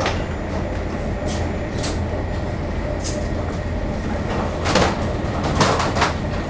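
A CRH1 high-speed train running at about 170 km/h, heard from inside the carriage: a steady low rumble with scattered sharp clicks and knocks, which come louder and closer together in the second half.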